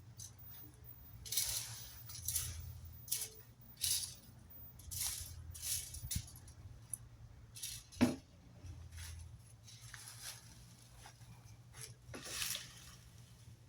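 Rake being dragged through dry leaves in repeated scratchy strokes, roughly one a second, with a sharper knock about eight seconds in.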